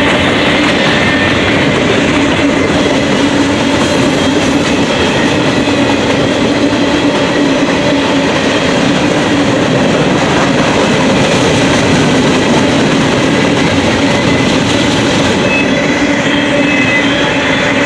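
Coal hopper cars of a Norfolk Southern freight train rolling past, a loud steady rumble and clatter of steel wheels on rail with a faint thin squeal running through it.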